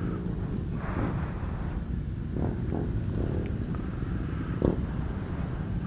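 Steady low rumble of outdoor background noise, with faint distant voices a few times in the middle.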